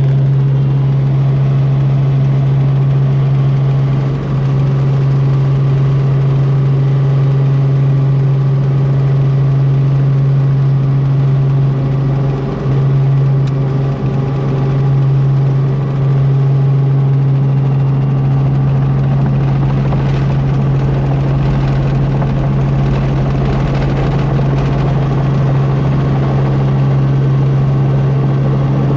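A helicopter's engine and rotors running steadily in flight, heard from aboard, with a loud constant low hum.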